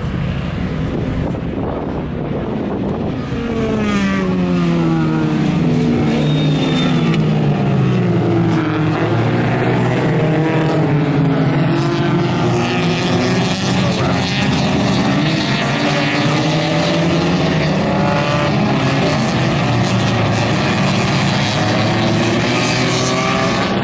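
Car engines running hard, more than one at once, their pitch sliding down and back up again and again as they rev.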